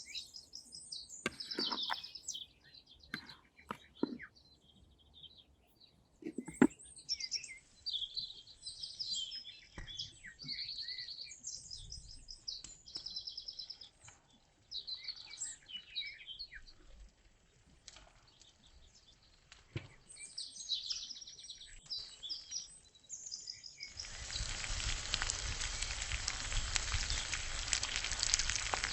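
Small birds chirping and calling, with a few sharp knocks and clicks in between. Near the end, food frying starts suddenly: a dense, steady sizzle.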